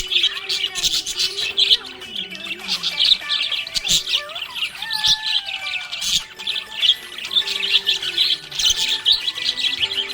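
Budgerigar chirping and chattering in a rapid, continuous stream of high chirps.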